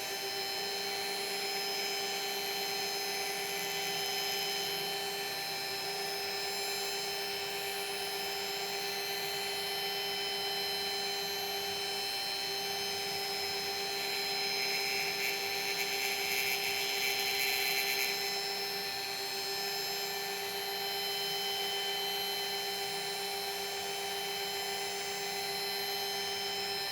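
Small milling machine running steadily, its cutter hand-fed across the end of a brass bar to clean it up. The cutting grows louder from about 14 to 18 seconds in.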